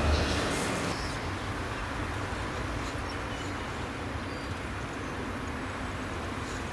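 Steady rumble and hiss of a passenger train, a little louder in the first second and then even.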